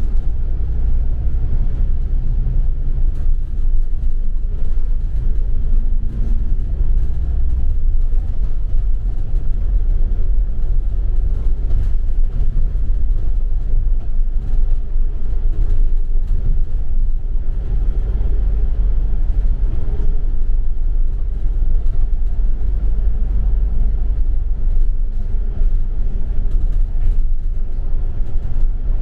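Double-decker city bus in motion, heard from inside the cabin: a steady low rumble of engine and road noise.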